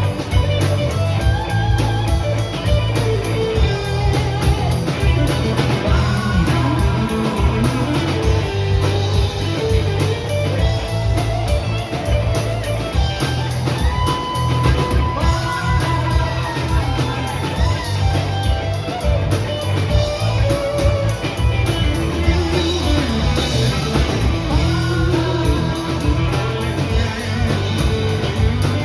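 A rock band playing, with an electric guitar lead line bending and sliding between notes over bass and drums.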